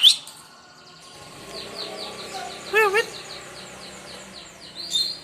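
Lovebird chattering: a sharp chirp at the start, then a fast run of short, high, falling chirps, about four a second, through the middle. A short warbling, voice-like call comes about three seconds in.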